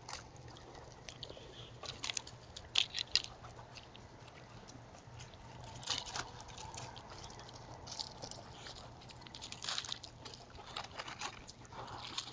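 Coyotes feeding at a ground bird feeder: irregular crunching and scuffing clicks as they chew scraps and move about, over a faint steady low hum.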